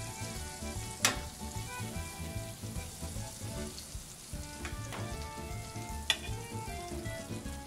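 Breaded vegan chicken scallopinis sizzling as they are laid into hot vegan butter and olive oil in a stainless steel sauté pan. Two sharp clicks of metal tongs against the pan come through, one about a second in and another near the end.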